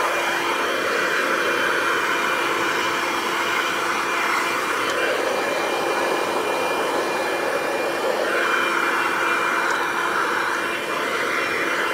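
Black+Decker Dustbuster QuickClean cordless handheld vacuum running steadily, a high motor whine over a rush of suction air that swells and eases a little now and then.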